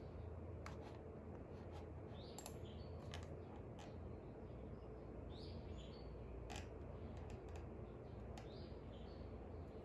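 Faint birdsong: short chirps from songbirds every second or two, over a steady low hum, with a few sharp clicks scattered through.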